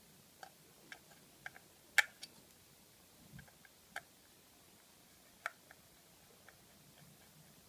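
Small, irregular clicks and taps of repair tools against an iPhone 5's parts, about ten in all, the sharpest about two seconds in.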